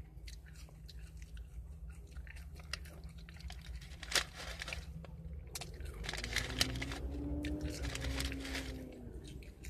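Close-up chewing of McDonald's french fries: soft crunches and wet mouth clicks, with one sharper click about four seconds in. A faint rising-and-falling hum joins from about six to nine seconds in.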